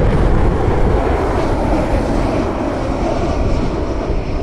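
Jet airliner engines roaring as the aircraft passes, the roar slowly fading.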